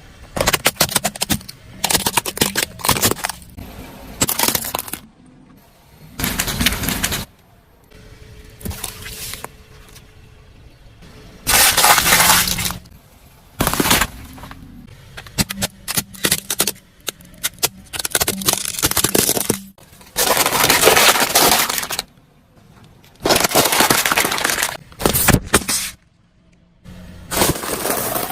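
Repeated bursts of crunching and cracking, with many sharp snaps, as crunchy objects are crushed under a car's tyres, with short pauses between crushes.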